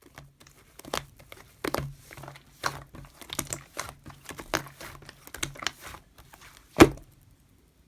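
Hands kneading and stretching a mix of white clay slime and green clear slime, making irregular sticky clicks and pops, with one loudest pop near the end.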